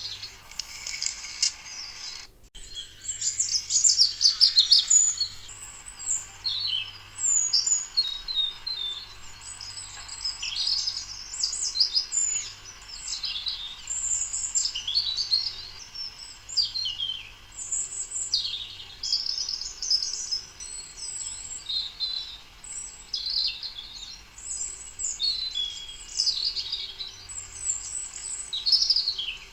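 Many birds chirping and singing, short high chirps and trills overlapping one another continuously, with a brief break about two seconds in.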